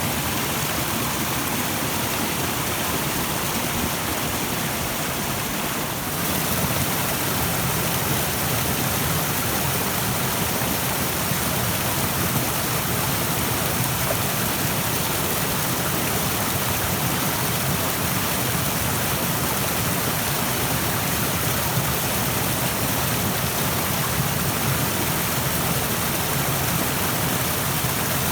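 Rushing stream water, a steady dense hiss of flowing water that grows slightly louder and brighter about six seconds in.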